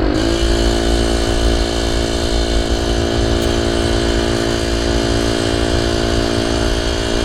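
An engine running steadily at high speed. It starts abruptly, dips in pitch briefly, then holds an even note over a low rumble.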